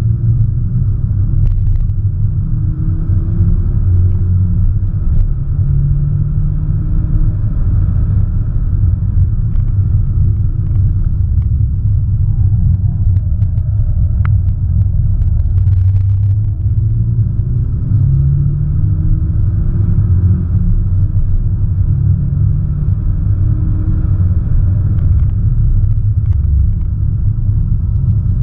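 Audi S1 Sportback's turbocharged 2.0-litre four-cylinder engine heard from inside the cabin under hard driving. The engine note climbs in pitch several times as the car accelerates, over a heavy, steady low rumble of road noise.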